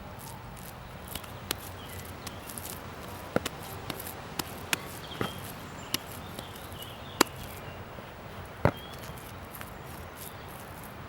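Hands working a ball of wet, freshly mixed natural clay: a dozen or so sharp, irregular wet smacks and clicks as the mud is pressed and pulled from the fingers, over a steady outdoor background hiss.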